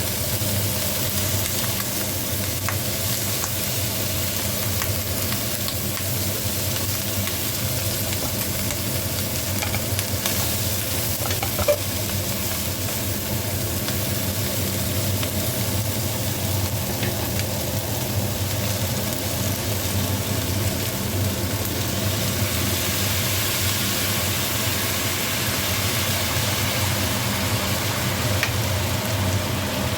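Food sizzling and frying in a hot pan: a steady hiss over a low steady hum, with a single click about twelve seconds in.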